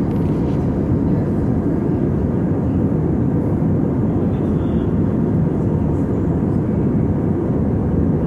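Steady in-flight cabin noise of an Airbus A320 airliner: engine and airflow noise, a constant low rumble with no changes.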